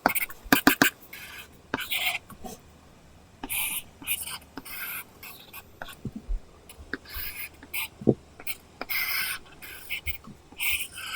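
Apple Pencil scratching across a paper-texture screen film on an iPad as it draws, in short irregular strokes with occasional tip taps.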